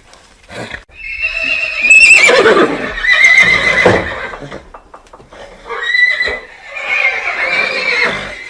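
Horse whinnying twice: two long, quavering whinnies, the first about a second in and the second about six seconds in, with a few faint knocks just before the first.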